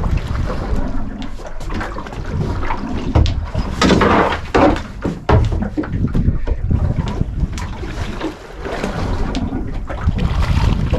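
Wind buffeting the microphone on an open fishing boat at sea, with scattered knocks and a louder rush of noise about four seconds in.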